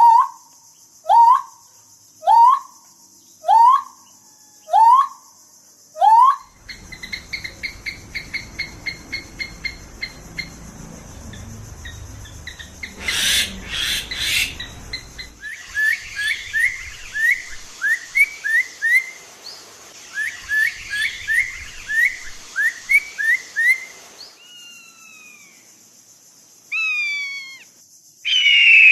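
A series of different bird-like calls in turn. First comes a short rising call repeated about every second; then fast chirps with a loud burst partway through; then a run of quick repeated chirps; then a few falling calls and one loud call near the end. A steady high hiss runs underneath.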